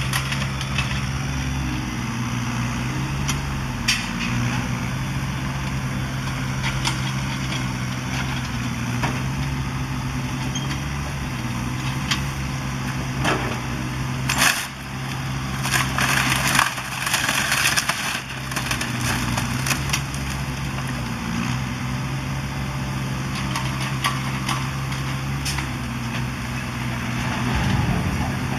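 Demolition excavator's diesel engine running steadily, its pitch dipping and rising as the hydraulics take load, with scattered knocks. About halfway through comes a louder spell of crashing and crunching as building debris is broken and falls.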